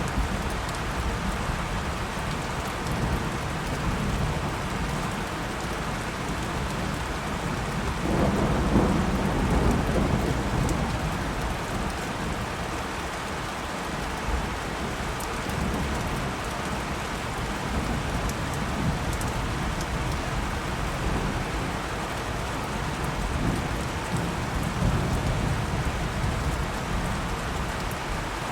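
Steady rain falling during a thunderstorm, with low rolling thunder rumbling underneath; a louder peal of thunder swells and rolls off about eight seconds in.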